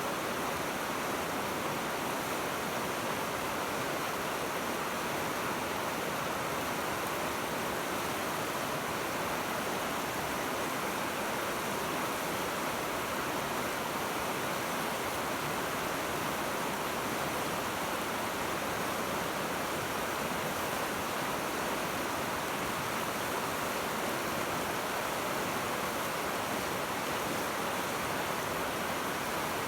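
River rapids rushing: the steady, unbroken roar of fast white water over rocks.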